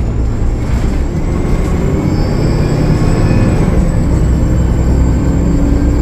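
Cummins ISL9 diesel of a 2013 Gillig Low Floor transit bus running under way, a steady low rumble with a faint high whine that joins about two seconds in. The bus has a known turbo leak.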